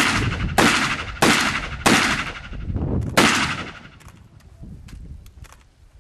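Five gunshots: four in quick succession about two-thirds of a second apart, then a fifth after a slightly longer pause. Each shot trails off briefly. Faint small clicks follow.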